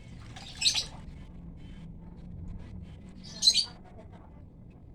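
A bird chirping twice, short high calls about three seconds apart.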